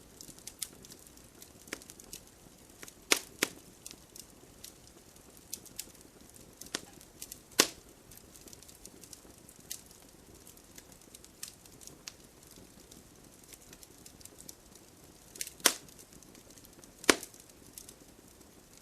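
Campfire crackling: burning wood snapping and popping in irregular sharp cracks over a soft steady hiss, with about five louder pops spread through.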